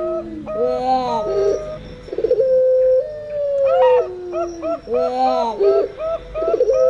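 Puter pelung (turtle doves) and perkutut (zebra doves) cooing together. Long coos hold one pitch and then slide down, overlapping runs of short, quick coo notes, and the pattern comes round again about every four seconds.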